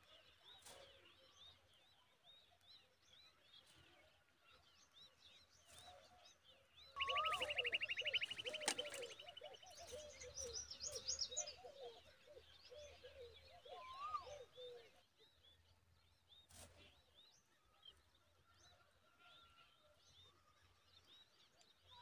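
Birds chirping at a common babbler's nest while the nestlings are fed, typical of nestlings begging. About seven seconds in comes the loudest part, a rapid high trill with chattering that lasts a few seconds. A short rising-and-falling whistle repeats three times.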